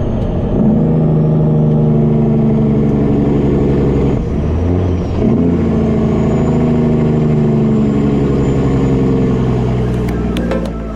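Diesel engine of a Peterbilt 387 semi-truck running steadily under way, with a short dip in sound about four seconds in before it pulls on again.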